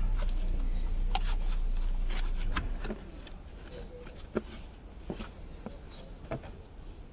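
Steady low machine hum that cuts off about three seconds in, followed by a few scattered light clicks and knocks.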